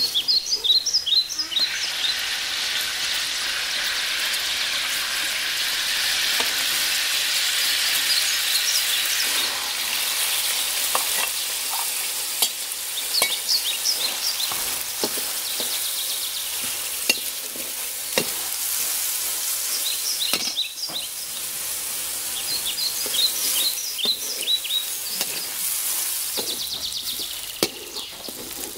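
Sliced onions sizzling steadily in hot oil in a steel wok, stirred and scraped now and then with a metal slotted spatula. Short bird chirps come and go behind it.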